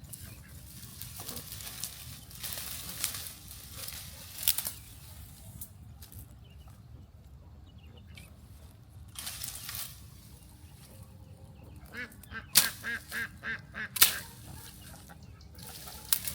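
Farm ducks calling, with bursts of noise in between. About twelve seconds in comes a quick run of short repeated calls, three or four a second.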